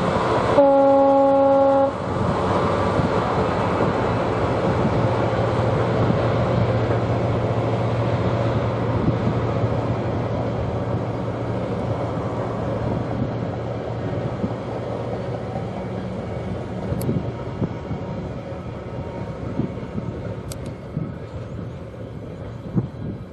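Class 66 diesel-hauled freight train: a single short horn blast, just over a second long, about half a second in, then the train running past with a steady engine note and wagon noise that slowly fades away.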